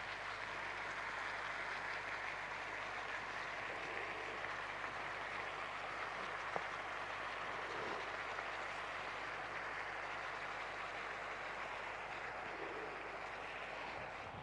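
Chopped vegetables (zucchini, potatoes, peppers, onion) sizzling steadily in a hot pan as fresh orange juice is squeezed over them.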